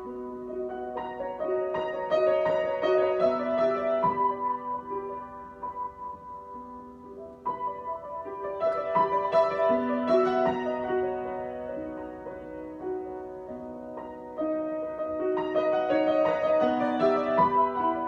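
Solo piano improvisation with slow, sustained notes and chords. It swells into a louder, fuller phrase three times, about a second in, near the middle and near the end, and eases back between them.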